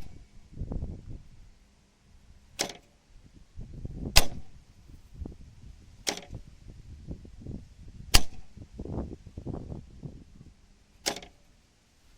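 PAE-322 electromagnetic starter clacking as its contactor pulls in and drops out. There are five sharp clacks, about two seconds apart, with fainter handling knocks between them.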